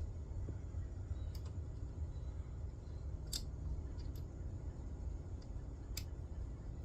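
A handful of sharp, light clicks, about four spread a second or two apart, over a low steady rumble: parts and tools being handled while a chainsaw mill attachment is adjusted. The chainsaw is not running.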